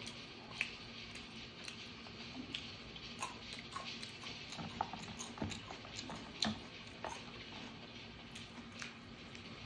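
Quiet close-up eating sounds: soft chewing with many small, irregular clicks and taps from wooden chopsticks and handling of fried chicken pieces. A faint steady low hum runs underneath.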